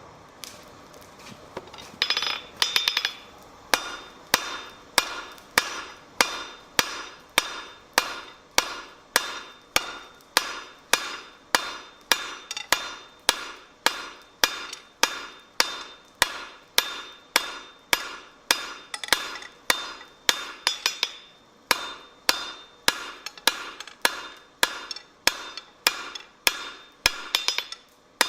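Blacksmith's hammer striking steel on an anvil in a steady rhythm, about two blows a second, each with a bright ring and a few lighter rebound taps. The hammering starts about two seconds in.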